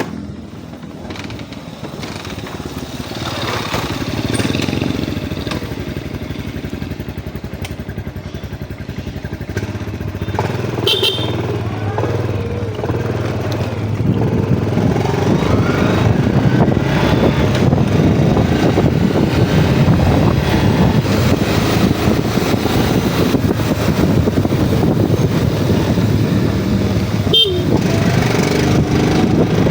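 Yamaha Jupiter MX motorcycle being ridden, its engine running with rises in pitch as it speeds up. It gets louder from about halfway through.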